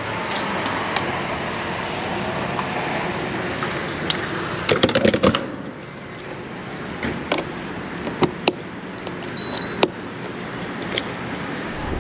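Steady hiss of traffic on a wet road, with no engine tone standing out, fading a little after about six seconds. Sharp knocks and clicks come through it, a cluster of them about five seconds in and a few single ones later.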